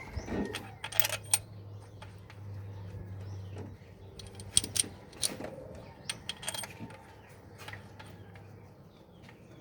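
Metal hand tools and engine parts clinking and tapping in scattered sharp knocks, over a steady low hum that fades out near the end.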